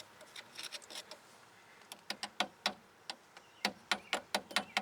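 Sharp metal-on-metal taps, a hammer tapping a screwdriver against a small steel brake-line retaining clip on a strut to drive it off. A few scattered taps come first, then a steady run of about four a second from past halfway.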